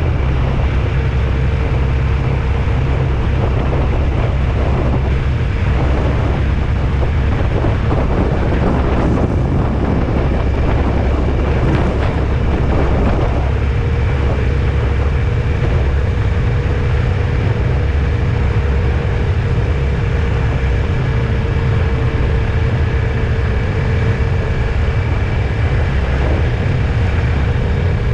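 Steady low rumble of a vehicle on the move, engine and road noise, with a faint constant hum over it.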